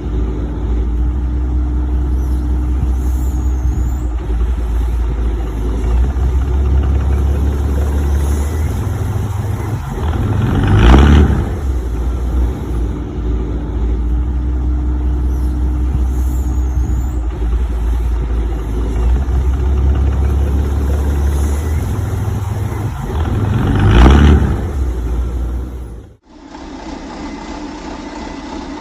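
Heavy vehicle engine rumbling deep and steady, swelling louder twice, about thirteen seconds apart, in an identical repeating pattern; it cuts to a thinner, quieter engine-like sound near the end.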